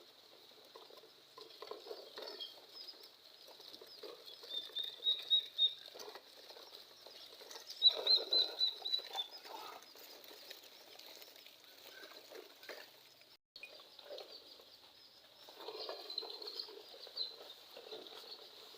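Small birds chirping in quick runs of short high notes, loudest about five and eight seconds in and again near the end, over an intermittent low rustling.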